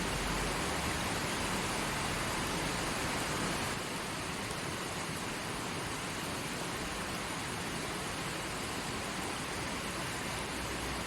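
Creek flowing: a steady rush of running water, easing slightly about four seconds in.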